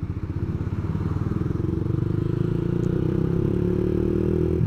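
Yamaha MX King 150's single-cylinder engine running through an aftermarket racing exhaust under way, its note climbing gradually as the bike accelerates and dropping off right at the end.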